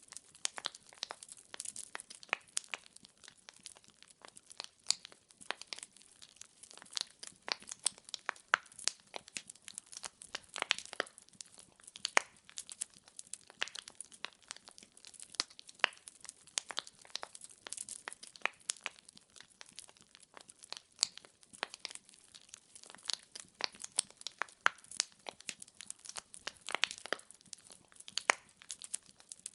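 Wood fire crackling steadily, with many sharp, irregular pops and snaps from the burning logs.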